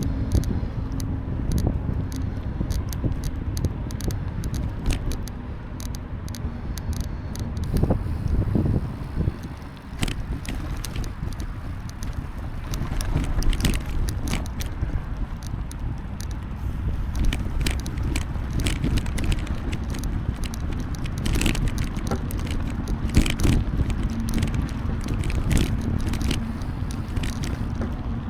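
Riding noise from a POV bicycle camera: a steady rumble of wind on the microphone and tyres on the path, with frequent small rattles and clicks from the bike. The rumble drops briefly about a third of the way in.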